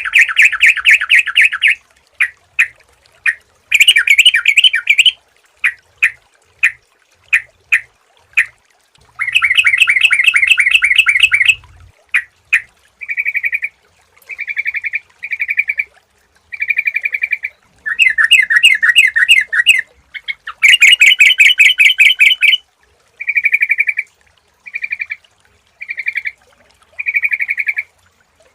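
Yellow-vented bulbul (trucukan) singing loudly: bursts of rapid bubbling, chattering notes repeated every second or two with short gaps, some bursts lasting a couple of seconds.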